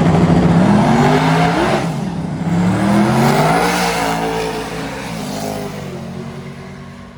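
A car engine held at a steady high rev, then accelerating hard. Its pitch climbs, drops at each upshift and climbs again about twice, and the sound fades as the car pulls away down the strip.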